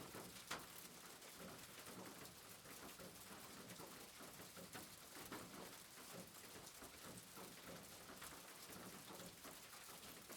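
Faint, steady rain, a soft hiss dotted with scattered drop ticks, with one sharper tick about half a second in.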